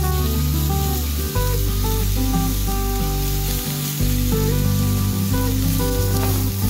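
Background music with steady notes over the continuous sizzle of shredded potatoes, carrot and Vienna sausages frying in a pan as a spatula moves them about.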